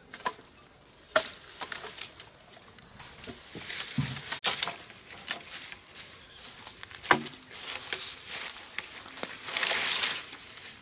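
Dry firewood branches being handled: scattered sharp knocks and snaps of wood, with a rustling stretch near the end.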